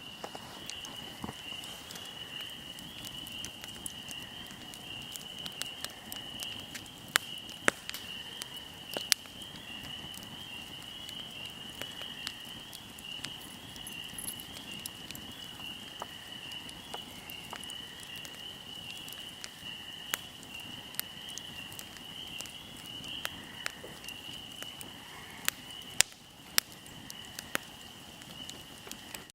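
Fire crackling with scattered sharp pops, a few of them much louder, over a steady trilling chorus of crickets.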